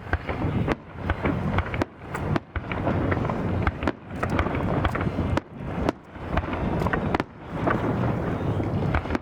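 Fireworks going off in quick succession: a dense run of sharp crackling pops over a low rumble of bursts, broken by a few brief pauses.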